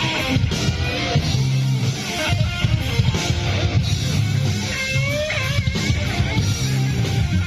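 Live rock band playing: electric guitar over bass and drums, loud and continuous.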